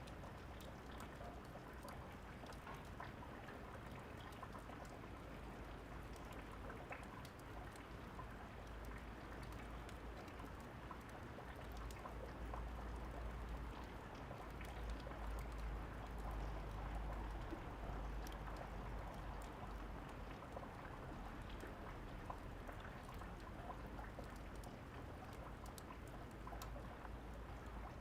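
Steady rain falling, with sharp crackles of a wood fire mixed in. A low rumble of distant thunder swells about twelve seconds in and fades again by about twenty seconds.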